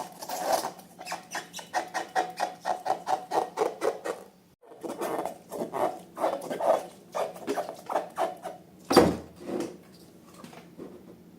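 Slime being squished and poked by hand, making quick sticky clicks and squelches about four to five a second, with a short pause about halfway. One louder smack comes near the end, after which the squishing is fainter.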